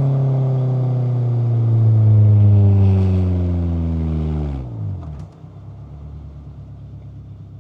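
Toyota AE86 Corolla Levin's 4A-GE twin-cam inline-four engine winding down as the car slows, its revs falling steadily for about four and a half seconds. Then the revs drop sharply to a steady, much quieter idle.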